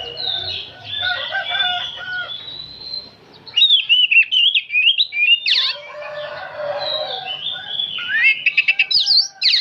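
Oriental magpie-robin singing a varied song of whistled phrases, breaking into loud rapid runs about three and a half seconds in and again near the end.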